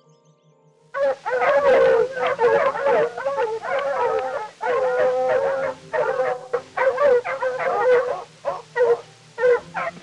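Canines howling and yipping, wavering calls overlapping one another and breaking off and starting again, over soft background music.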